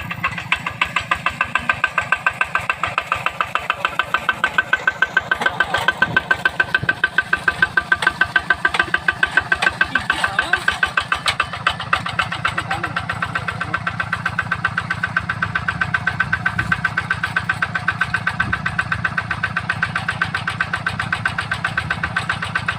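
Yanmar Bromo Pro hand tractor's diesel engine running with a steady, rapid chugging beat.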